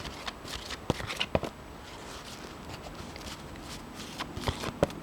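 A deck of Lenormand cards being handled and shuffled, with scattered soft clicks and taps of the cards.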